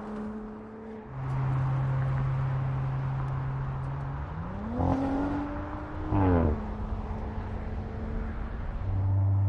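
Audi RS 5 Coupé engine running at steady revs. The pitch rises about four seconds in, briefly gets louder around six seconds, then drops back.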